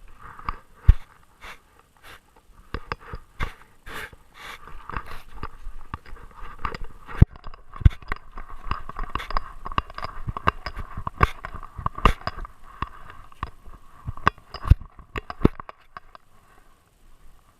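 Close-up sounds of a Great Dane carrying a GoPro on its body: a run of irregular clicks and knocks over a breathy hiss, which die away about a second before the end.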